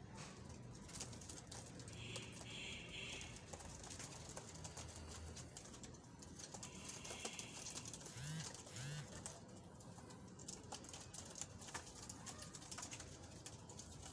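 Pigeons calling faintly, with two short coos about eight seconds in, over scattered light clicks and taps.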